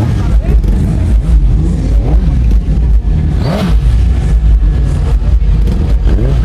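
Motorcycle engines revving up and down over a steady low rumble, the pitch swelling and falling several times.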